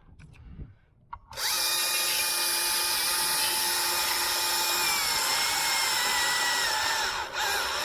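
Chainsaw bursts into full-throttle running about a second and a half in. Its pitch holds steady, then sags and wavers near the end as it loads up in the cut, with a brief drop just before the end.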